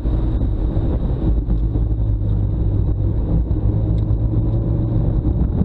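2000 Mazda Miata's 1.8-litre four-cylinder engine running at a fairly steady note under way on track, heard from inside the cabin along with road and wind noise.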